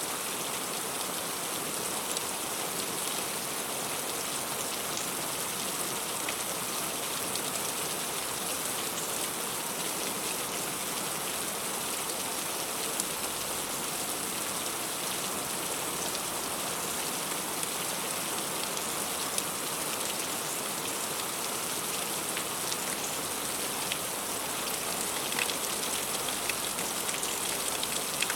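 Heavy rain falling steadily on a fruit tree's leaves, an even hiss with a few sharper drop ticks here and there.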